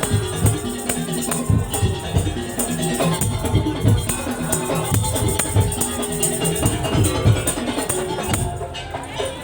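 Madurese tong-tong (daul) percussion ensemble playing: dense, regular low drum beats under a repeating melodic line of pitched notes, with rattling percussion on top.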